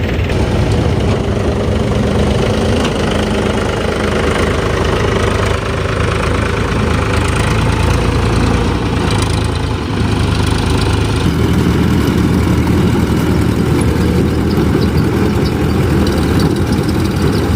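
Heavy diesel engine running steadily, its low tone shifting about eleven seconds in.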